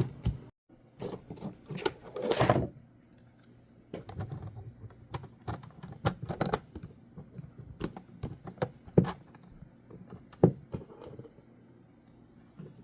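Irregular clicks, knocks and rattles of 3D printed plastic crossbow magazine parts being handled and fitted together.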